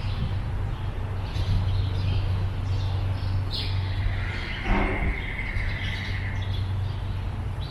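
Birds calling and chirping, with one long whistled note partway through, over a steady low rumble.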